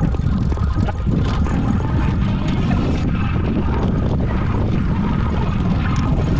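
Continuous rumbling wind and road noise from a bicycle-mounted camera, dense and steady, with many small rattles and clicks throughout.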